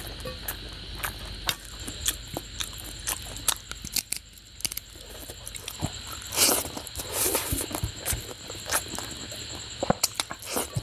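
Close-miked eating of curry and rice by hand: wet chewing and lip-smacking clicks, with two louder, longer mouth sounds about six and seven seconds in as a handful goes into the mouth. A faint steady high whine runs underneath.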